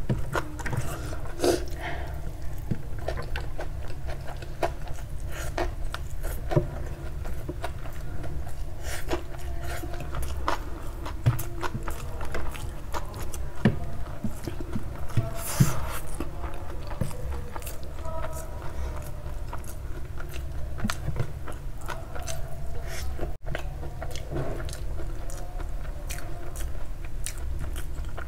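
Close-miked eating sounds: chewing and many short wet mouth clicks as soft noodles are eaten by hand, over a steady low hum. A louder, longer mouth sound comes about halfway through.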